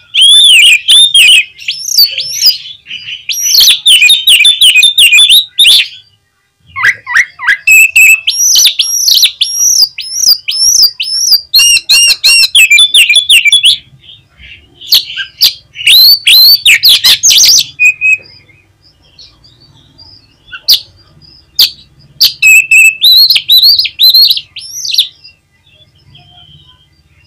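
Oriental magpie-robin (kacer) singing loudly in bursts of rapid, sweeping whistled and chattering notes, with short breaks between phrases. It is a bird-keepers' bait song meant to set off a caged kacer.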